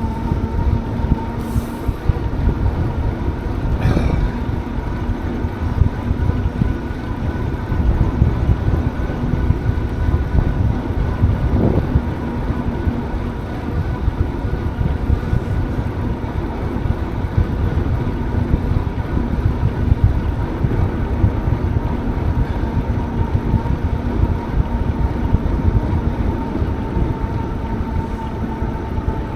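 Steady low rumble of wind buffeting the microphone and tyres rolling along the path while riding a bicycle, with a faint steady hum above it.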